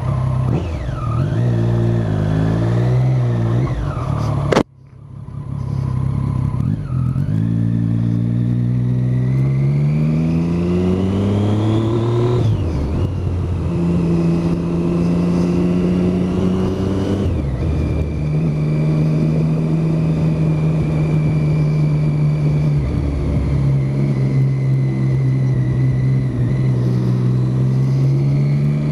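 Motorcycle fitted with an aftermarket Arrow exhaust can pulling away and accelerating, the engine note rising through the gears with a shift about twelve seconds in and another near seventeen, then holding steady at cruising revs. The sound cuts out for an instant about four and a half seconds in.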